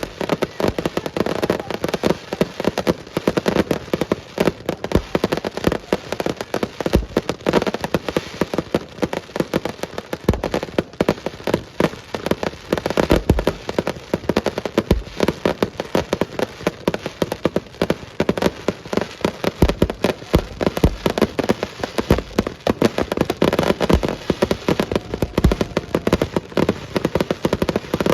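Aerial fireworks display: a dense, continuous crackling of many small bursts, with deep booms of shells going off every second or few.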